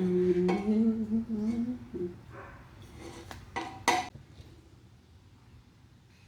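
A man hums one wavering note for about two seconds. Then come three sharp metallic clinks of exhaust pipe being handled, the last the loudest.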